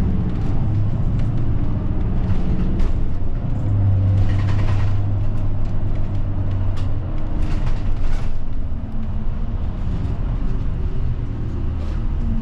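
Route bus's diesel engine running, heard from inside the passenger cabin: a steady low hum, with a few short rattles and clicks from the cabin.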